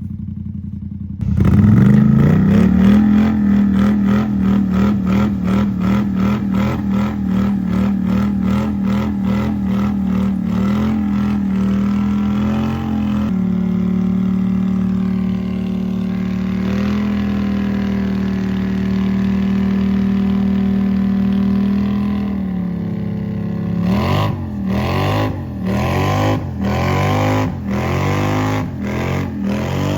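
Off-road vehicle's engine revved hard while stuck in mud: it jumps to high revs about a second in and is held there, then eases off and is blipped in short repeated bursts, about one a second, near the end.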